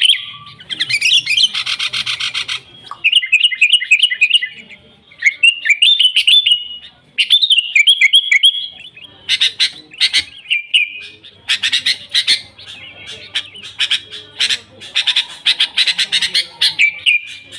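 Sooty-headed bulbul (kutilang) singing at full voice: bubbly phrases of short, quick chirping notes, broken by bursts of rapid, scratchy chatter.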